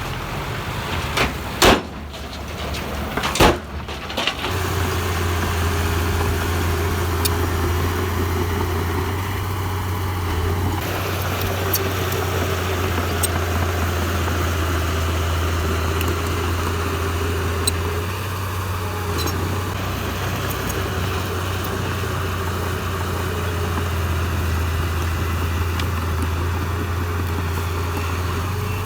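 Two sharp knocks about two and three and a half seconds in, then a heavy machine's diesel engine running steadily at an even pitch.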